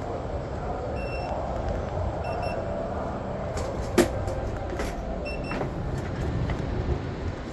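Steady low rumble of a PATH train ride, with a single sharp click about four seconds in and a few faint short high beeps.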